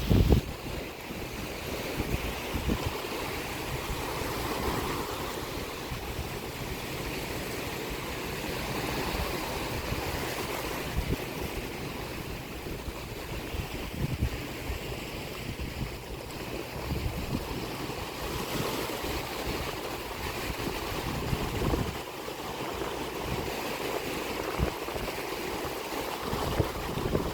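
Sea waves washing onto the shore in a steady, swelling wash, with wind buffeting the microphone in low rumbling gusts.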